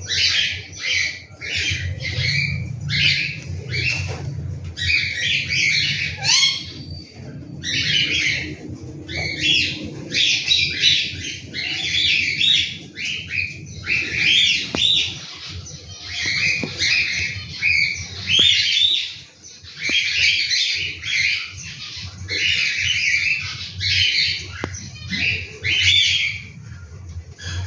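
Cockatiel chicks calling in rapid strings of short, rasping calls, nearly without a break.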